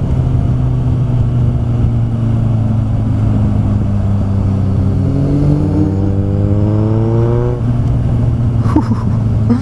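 Kawasaki Z800 inline-four motorcycle running through an Ixil exhaust with its dB killer removed, so it is very loud. It holds a steady note, then revs climb for about three and a half seconds under acceleration and fall back sharply near the end, with wind rumble on the microphone.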